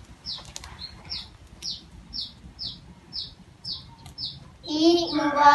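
A small bird chirping over and over, short falling chirps about two a second. A child's voice starts near the end and is louder than the chirps.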